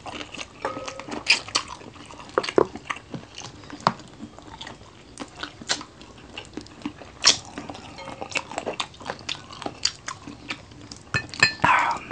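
Close-up chewing and crunching of fried chicken feet, with irregular wet mouth clicks and smacks. A brief louder sound comes near the end.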